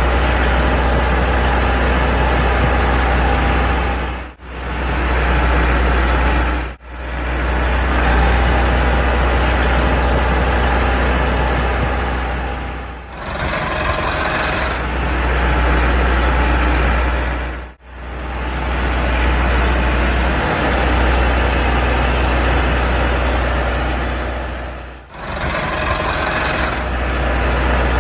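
Tractor engine running steadily with a deep rumble, cut off briefly several times where segments join.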